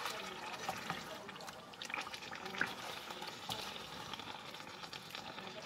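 Chicken pieces frying in hot oil, a steady sizzle with scattered small pops and crackles, as they are turned with a wooden spoon.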